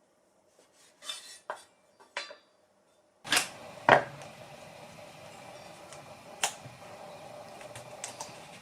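Kitchenware clinking and knocking: a few light clicks, then two louder knocks about three seconds in, after which a steady hum holds on with occasional clicks.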